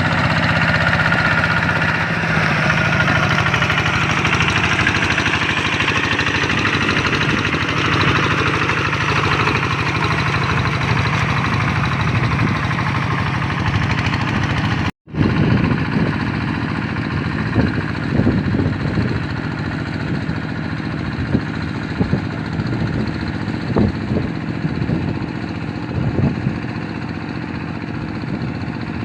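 Hand tractor's single-cylinder Kubota RD 85 diesel engine running steadily. After a cut about halfway, it keeps running with a few short, irregular knocks.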